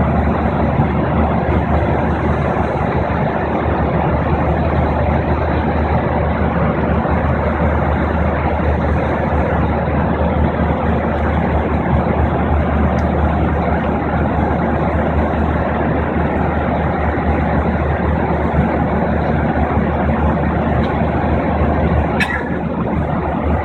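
Steady airliner cabin noise in flight: the low rumble of the jet engines and rushing air heard from inside the cabin. A brief click stands out near the end.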